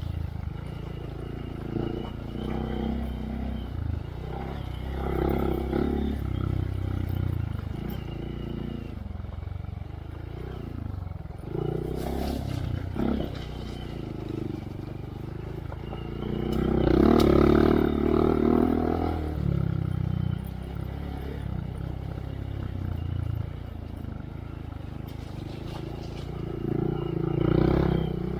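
2023 Honda Monkey's 125 cc single-cylinder engine running through a Yoshimura RS3 exhaust with spark arrestor, going on and off the throttle at trail speed. It revs up loudest a little past halfway and briefly again near the end.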